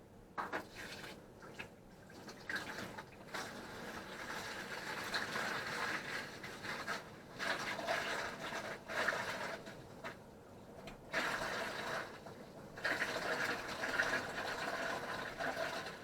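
White vinegar pouring from a one-gallon bottle into a plastic bucket, splashing in several stretches with short breaks between them.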